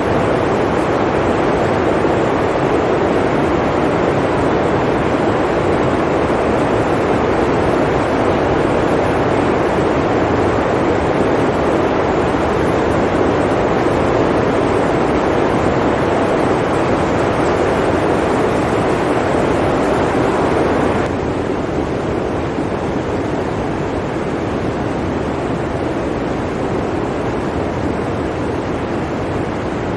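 Blizzard wind blowing in a steady, dense rush. About two-thirds of the way through it drops abruptly to a slightly quieter, duller rush.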